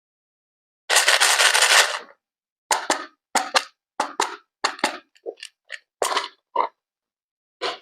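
Water sounds in separate bursts: a one-second hiss like a spray or pour about a second in, then a quick run of short splashes and squirts.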